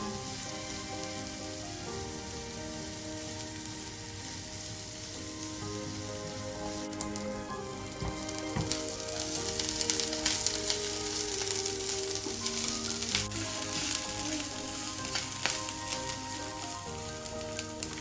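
Food frying in a pan, a steady sizzle that turns into louder, denser crackling about halfway through, with soft background music underneath.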